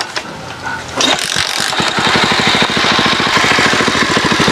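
Small motorcycle engine starting about a second in and then running with a rapid, even firing beat, its silencer just fitted back on.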